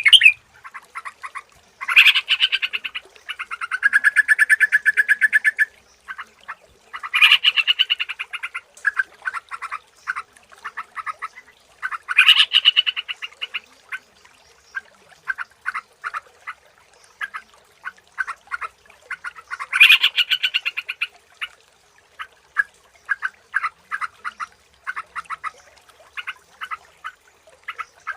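Sooty-headed bulbul (trucukan) calling: bursts of fast, bubbly chattering song about 2, 7, 12 and 20 seconds in, with quick scattered chirps between them.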